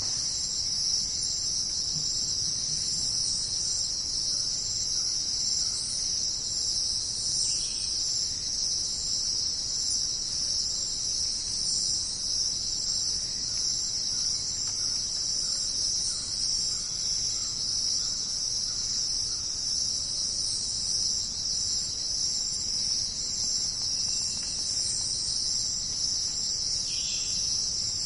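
A dense, steady chorus of jungle insects trilling high and unbroken, with a few faint short calls from other animals now and then.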